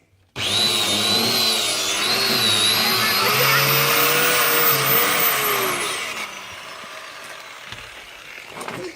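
A small electric motor starts abruptly with a high whine that wavers in pitch for about five seconds. It is then let off and winds down with a falling whine.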